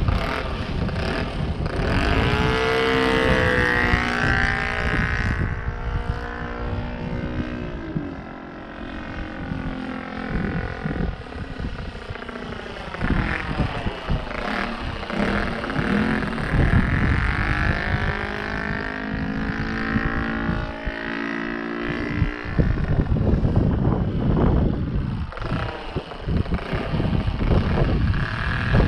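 Saito FG-21 four-stroke gasoline engine of an RC model plane spinning a propeller, its note rising and falling several times as the plane flies and the throttle changes. Wind rumbles on the microphone underneath.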